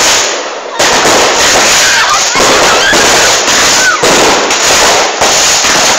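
Aerial fireworks bursting close by in a dense, continuous crackle of rapid bangs and pops, very loud, with a brief lull about half a second in.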